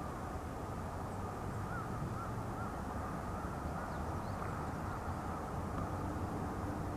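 A wild bird calls in a run of short, arched notes, about two a second, over a steady low background rumble.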